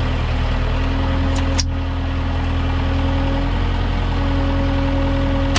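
Tractor engine running steadily, heard from the cab. A single sharp gunshot cracks out right at the end: the shot at a hog.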